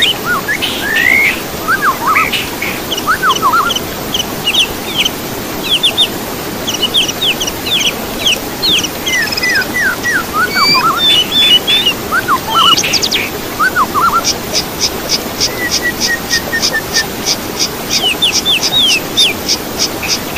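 Several songbirds singing together in a bird-tutoring recording: rapid whistled notes sweeping up and down. From a little past the middle, a short high note is repeated steadily about three times a second, over a steady background hiss.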